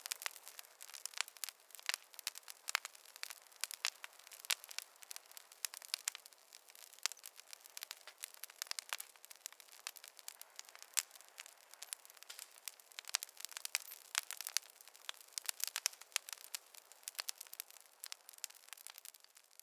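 Campfire burning, with a dense run of irregular sharp crackles and pops from the wood over a faint hiss.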